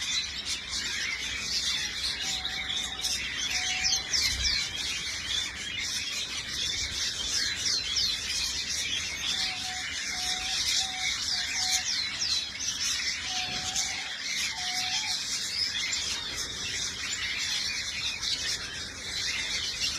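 Aviary birds chattering without pause: a dense mix of high chirps and quick falling call notes, with short, low, level notes repeated in small groups now and then.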